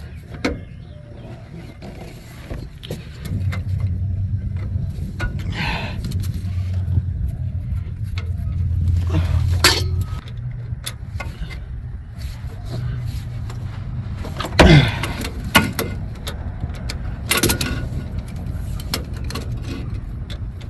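Hand-tool work on a Loctite-locked bolt under a truck: scattered metal clicks and knocks, the loudest about two-thirds of the way through, over a low steady rumble that swells for several seconds in the first half.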